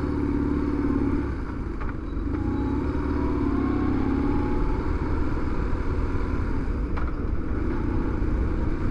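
Motorcycle engine running while under way, pulling away after a short easing-off about two seconds in, its pitch rising slowly as it gains speed.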